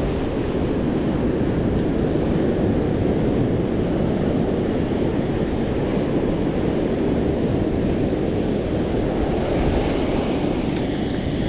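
Rough surf after a typhoon breaking on a sandy beach, with wind buffeting the microphone: a steady, unbroken wash of noise, heaviest in the low range.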